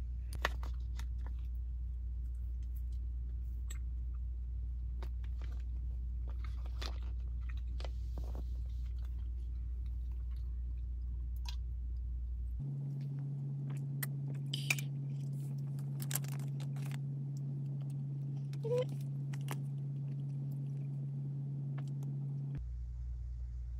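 A person chewing and biting food, with scattered small crunches and clicks, over a steady low hum.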